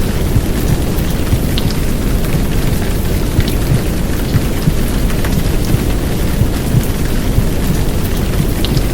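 Heavy downpour of rain, steady and dense, with a deep rumble underneath and a few sharp drop ticks.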